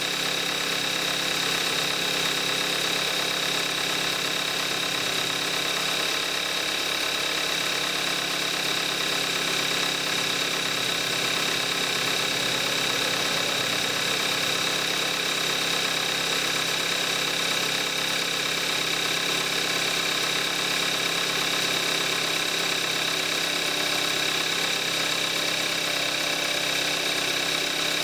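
2014 Kia Forte5's 2.0 GDI four-cylinder engine idling steadily while warming up after a cold start. It has 41,000 miles on it and runs on Amsoil 5W-30 oil. A steady high whine sits on top of the idle.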